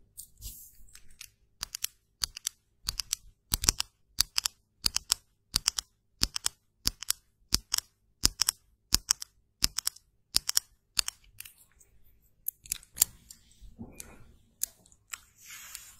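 A rapid series of sharp clicks or snips, many in close pairs, about one and a half a second, stopping after roughly ten seconds. Softer hissing and rustling noise follows near the end.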